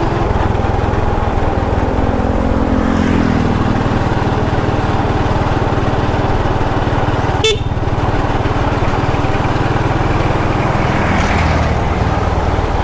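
Motorbike engine running steadily under way, with wind rushing over the rider's microphone. A lower pitched tone dips and fades away in the first few seconds, and a single sharp click comes about seven and a half seconds in.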